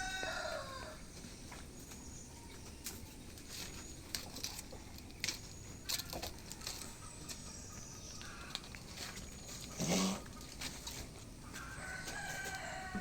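Rooster crowing twice: one crow trails off about a second in, and another starts near the end. Scattered clicks and rustles in between.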